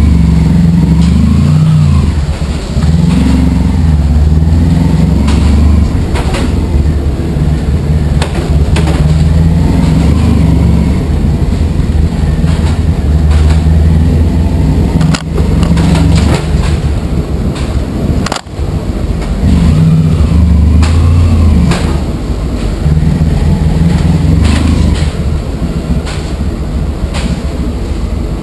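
Honda ST1100 Pan European's V4 engine running at low speed, its low rumble swelling and easing every few seconds as the throttle is worked, enclosed inside a Eurotunnel shuttle carriage. A few sharp knocks cut through, the clearest about halfway through and again a few seconds later.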